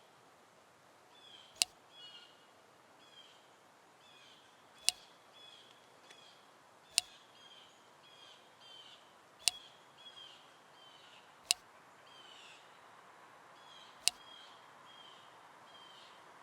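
Small birds chirping in short, quick falling notes, faint, with a sharp click every two to three seconds.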